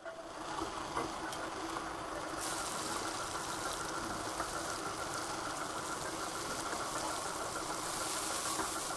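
A steady hum with a hiss, the hiss growing brighter about two and a half seconds in.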